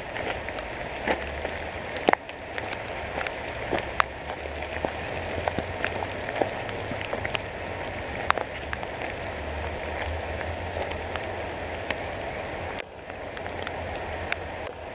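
Steady rain falling on forest foliage, with many scattered sharp taps throughout.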